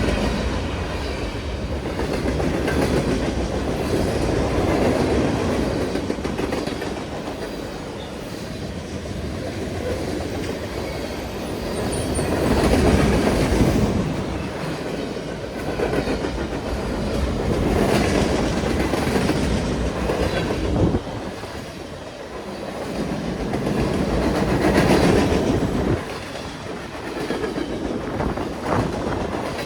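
The cars of a long CN freight train rolling past at about 44 mph: a steady rumble and clatter of steel wheels on rail that swells and eases every few seconds.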